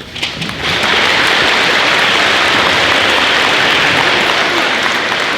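Audience applauding: a few scattered claps that swell within the first second into steady, loud applause.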